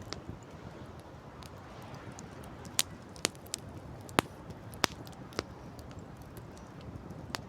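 Wood campfire crackling, with sharp irregular pops and snaps, over a steady rush of wind and sea surf.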